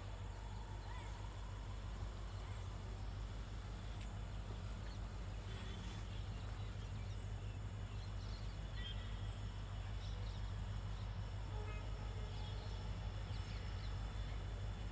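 Birds chirping in short, scattered calls over a steady low hum of outdoor background noise.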